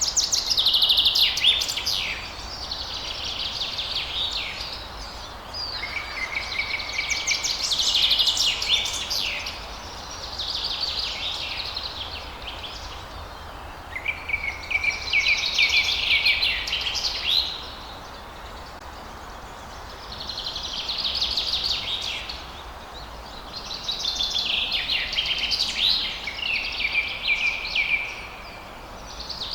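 Songbirds singing at dawn: a run of high, rapid twittering and trilled phrases, each lasting one to three seconds, one after another with short gaps, over a steady faint hiss.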